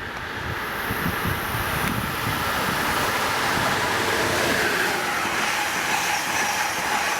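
Passenger train running through the station: the rumble and rail noise build over the first few seconds, then hold steady.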